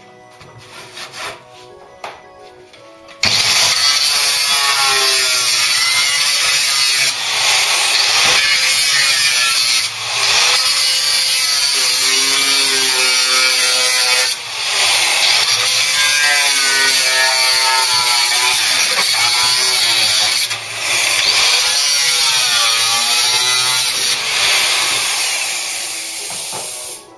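Power tool cutting through the car's sheet-steel floor panel. It starts abruptly a few seconds in and runs with a wavering pitch as it bites the metal, easing off briefly a few times, then stops abruptly near the end.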